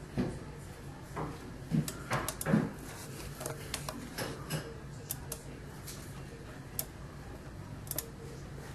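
Scattered light clicks and knocks over a steady low hum, with a few louder knocks about two seconds in.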